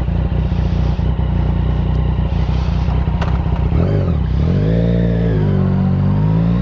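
Motorcycle engine running, then revved a few times from about four seconds in, its pitch rising and falling. It has a light ticking that the owner thinks is a lifter.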